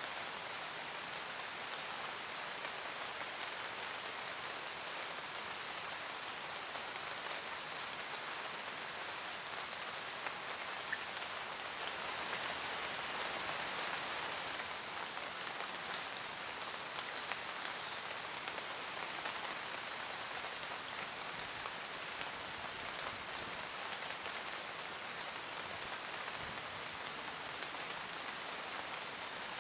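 Steady rain falling on forest leaves, an even hiss dotted with individual drops. It swells slightly about twelve seconds in.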